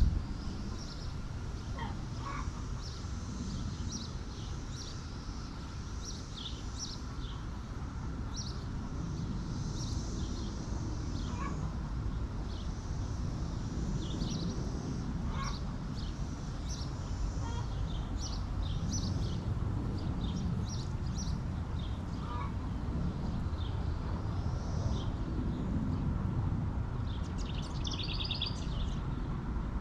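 Backyard chicken flock ambience: many short, high chirps of small birds throughout, with an occasional short call every few seconds, over a steady low rumble.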